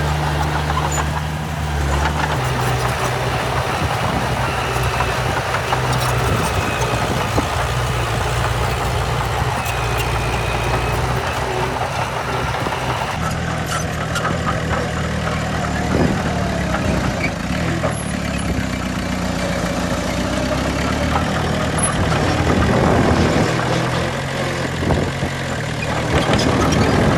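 Diesel engine of heavy earthmoving machinery running steadily, with scattered clanks and a shift in engine note about halfway through.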